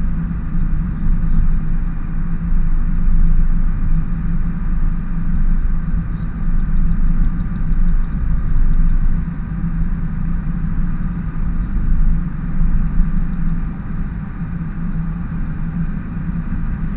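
Ford F-350 work truck driving, its engine and road noise a steady low drone heard from inside the cab.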